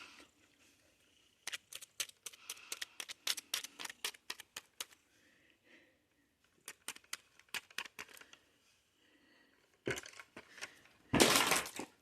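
Close-up crisp crackling from Tate's cookies and their packaging being handled, heard as irregular clusters of sharp crackles and snaps, with a louder crunch about eleven seconds in.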